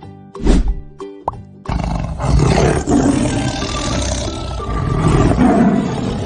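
Lion roaring: one long, rough roar starting about a second and a half in, over children's background music, after a brief sudden noise about half a second in.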